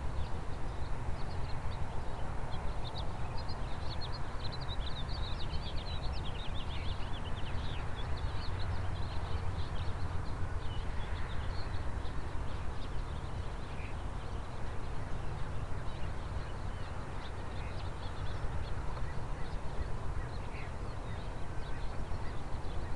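A flock of birds chattering and chirping in many quick, high calls, thickest in the first half, over a low steady rumble.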